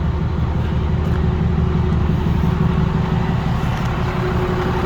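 Cummins diesel engine of an International 5600i crane truck idling steadily, a low, even rumble.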